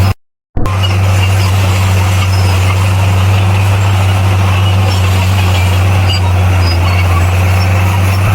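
Bulldozer's heavy diesel engine running steadily with a deep, even drone. Near the start the sound cuts out completely for about half a second.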